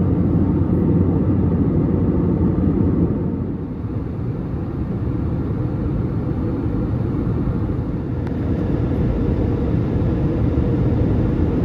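Steady cabin noise inside an Airbus A320neo airliner in descent: a low rush of airflow and engine drone, dipping slightly a few seconds in.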